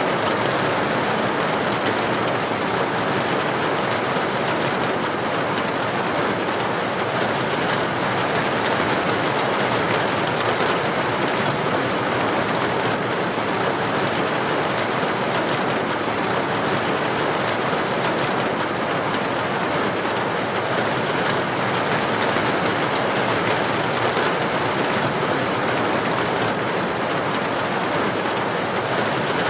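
Heavy rain pouring steadily onto a street, a constant even hiss.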